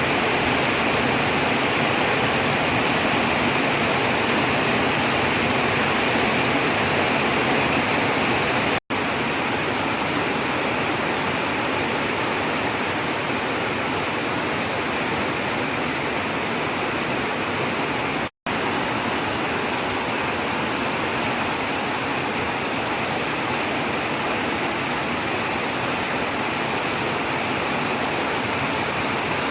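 Heavy rain pouring down in a steady, even rush. The sound cuts out twice for a split second.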